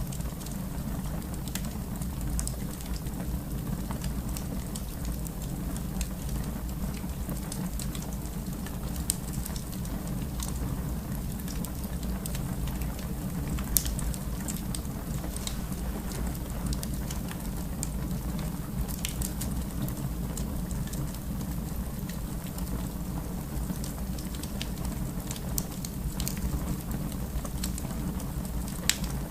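Fire burning in a fireplace: a steady low rumble with scattered sharp crackles and pops, a louder pop about 14 seconds in.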